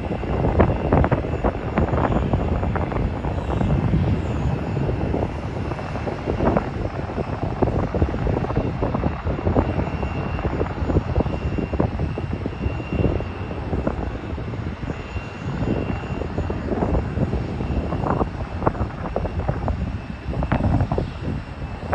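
Airliner jet engines running at a distance, with a faint steady high whine, under heavy gusty wind buffeting on the phone's microphone.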